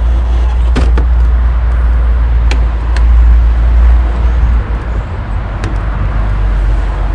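Plastic retaining clips of a Mercedes W203 front door card snapping loose as the panel is pried off with a trim tool: a handful of sharp clicks spread through, over a steady low rumble that is the loudest sound.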